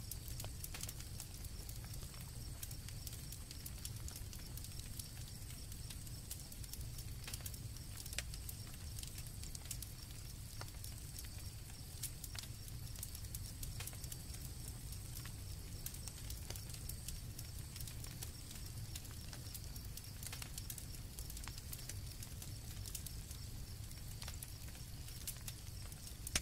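Campfire crackling, with irregular sharp pops over a low steady rumble, and crickets chirping steadily in a continuous high drone.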